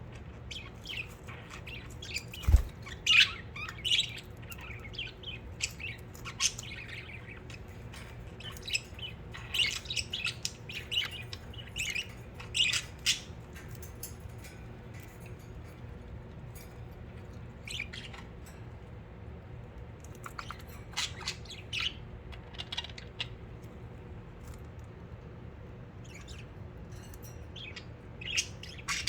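Budgerigars chirping and chattering in short, quick bursts, busiest in the first half, sparser in the middle and picking up again near the end, over a steady low hum. A single brief low thump comes about two and a half seconds in.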